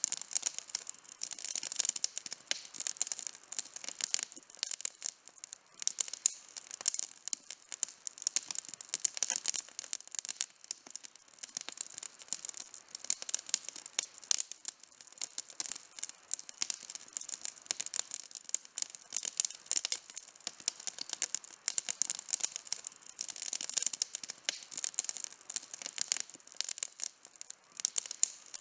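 Campfire crackling: wood burning with a dense, irregular run of sharp pops and snaps, some louder than the rest, over a soft hiss.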